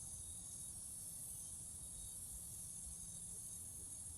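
Steady high-pitched insect chorus, with a faint low rumble beneath.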